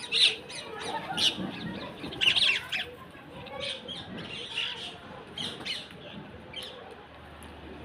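Birds calling: a run of short, harsh squawks and chirps, busiest in the first three seconds and thinning out after that.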